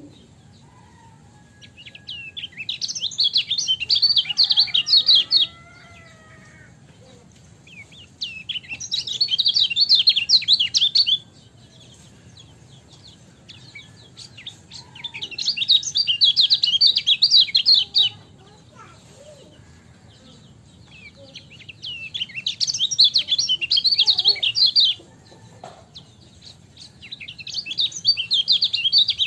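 Kecial kuning white-eye singing in bouts of rapid, high twittering chatter, each about three seconds long and coming about every six seconds, with faint calls between the bouts.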